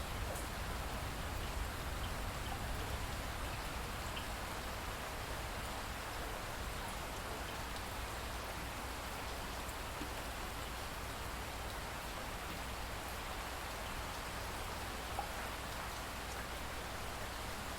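Steady rain falling, an even hiss with occasional individual drops ticking on a surface, over a low rumble.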